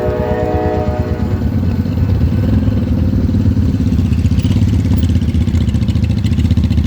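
Royal Enfield Himalayan's single-cylinder engine running steadily under way with a fast, even pulse. A multi-tone horn, likely a train's, sounds over it and stops about a second in.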